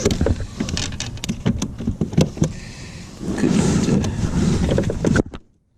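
A small fish flopping on a plastic kayak: a quick, irregular run of knocks and slaps, then a louder stretch of rustling noise that cuts off suddenly near the end.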